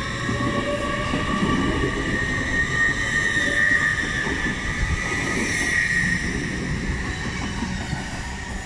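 TransPennine Express Class 802 bi-mode passenger train departing along the platform: a steady rumble of wheels and running gear with a continuous high-pitched whine over it.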